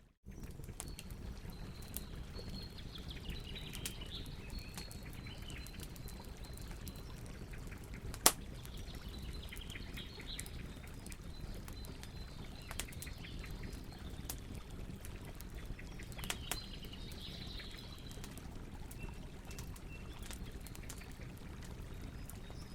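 Campfire burning with a steady low rumble and scattered crackles, one loud pop about eight seconds in. Faint high chirps come and go in the background.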